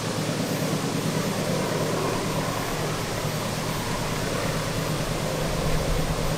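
A diesel train approaching out of sight: a low, steady engine hum under an even hiss, slowly growing louder.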